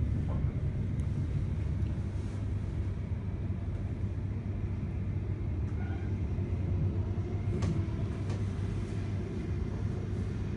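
Cabin noise inside a Siemens Nexas electric suburban train running along the line: a steady low rumble of wheels on rail, with a couple of faint clicks about eight seconds in.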